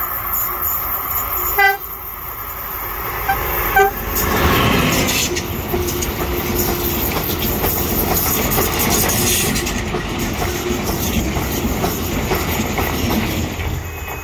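Passenger train sounding short horn toots, three in all, then passing close by with loud running noise and wheel clatter on the rails.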